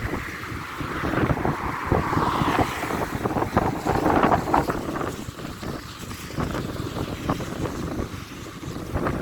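Strong, gusty storm wind blowing and buffeting the microphone, with the hardest gusts in the middle before it eases a little.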